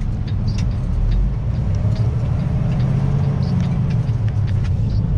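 Kenworth semi-truck's diesel engine running steadily while driving, with many small clicks and rattles throughout.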